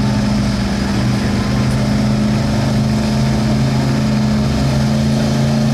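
1972 Ford F-250's stock gas engine running loud at a steady pitch while pulling the sled.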